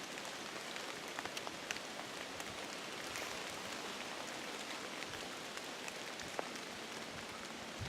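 Rain falling on a forest: a steady hiss with scattered sharp ticks of single drops landing close by.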